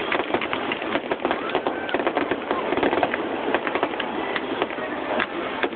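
Fireworks finale: a dense, continuous barrage of crackling pops and bangs, many small reports overlapping with no pause.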